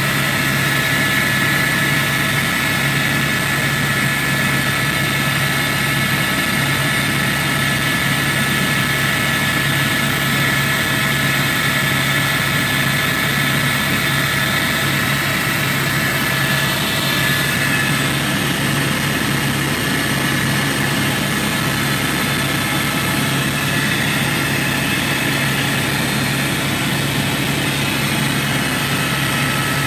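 Helicopter engine and rotor noise heard from inside the cabin in flight: a loud, steady drone with a low hum and a few constant higher whines.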